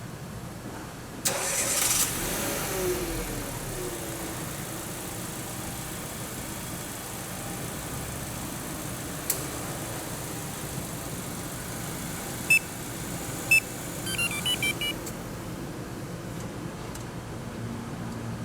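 Renault Captur engine started remotely by a VIPER remote starter: the starter cranks about a second in, the engine catches and revs up, then settles to a steady idle. Later a single click, two short electronic beeps a second apart, and a quick run of beeps at changing pitch.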